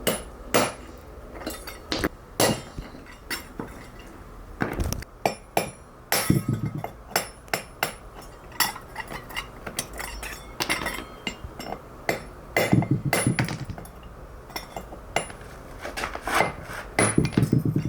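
Metal tools working stone: irregular sharp taps and clinks, broken by a few short runs of rapid rattling strikes.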